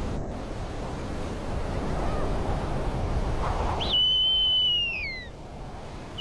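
Steady wind noise, then about four seconds in a single high whistled call from a snowy owl, held briefly and then sliding down in pitch.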